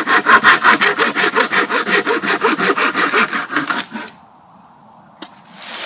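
Folding hand saw cutting dead wood with quick, even back-and-forth strokes that stop abruptly about four seconds in.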